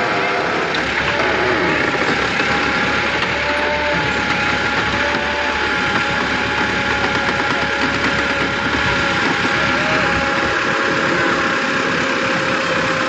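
Tractor engine running steadily under a constant load, with a dense mechanical rumble and a few steady engine tones held throughout.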